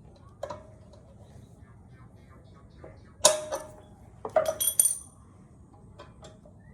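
Metal parts and tools being handled: light clicks, then a sharp metallic clank with a short ring a little over three seconds in, and a quick run of bright ringing clinks about a second later.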